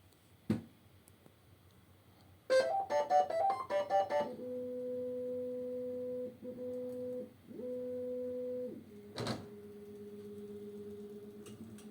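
Bambu Lab A1 3D printer's stepper motors sounding pitched tones: a quick run of changing musical notes, then steady humming tones held for a second or two with short breaks, the pitch dropping lower later on. Two sharp knocks, about half a second in and about nine seconds in. The held tones are the motor vibration of its vibration-compensation calibration, which the owner finds abnormally loud.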